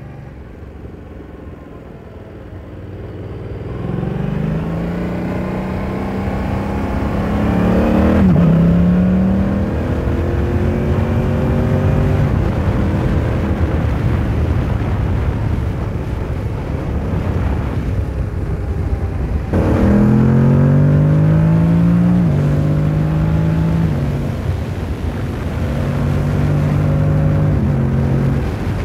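Yamaha R7 sport motorcycle's parallel-twin engine pulling away under throttle, its pitch climbing and then dropping sharply at an upshift about eight seconds in. It runs steadily for a while, then accelerates again with more quick upshifts in the second half, over a constant rush of riding wind and road noise.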